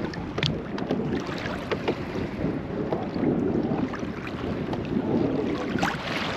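Wind buffeting the microphone over water slapping against a kayak's hull in choppy conditions, with scattered small splashes and knocks.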